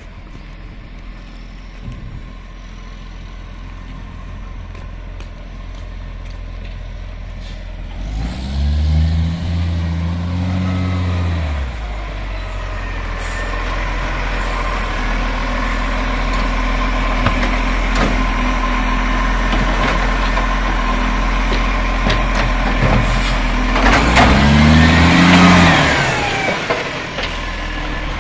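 Garbage truck's diesel engine running, revving up and back down twice, about eight seconds in and again near the end. A hiss comes with the second rev.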